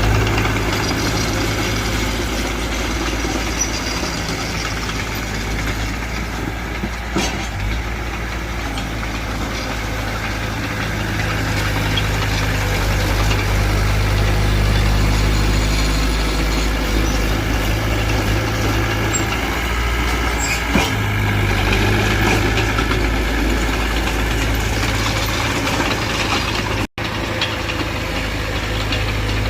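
Heavy diesel engines running steadily with a deep hum, from a small Mitsubishi BD2F crawler bulldozer working soil alongside a dump truck. The sound breaks off for an instant near the end.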